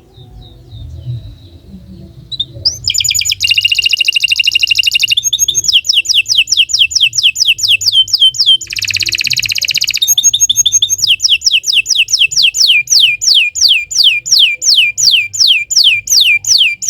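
Domestic canary singing. After a quiet, faint start it breaks into loud rapid trills and a buzzing roll, then a long run of repeated falling notes, about four a second.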